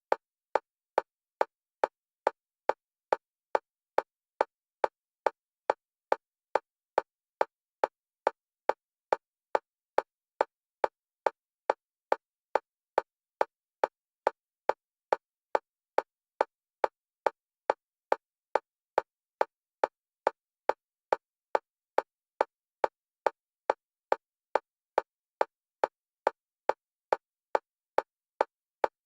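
Synthetic metronome clicks of one pitch, evenly spaced at about five clicks every two seconds and steady throughout, alternating between left and right stereo channels for EMDR bilateral stimulation.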